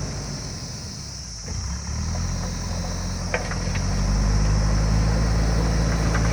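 JCB backhoe loader's diesel engine running. It drops back briefly about a second in, then picks up, and gets louder about four seconds in as it takes on load. A few light clinks come around the middle.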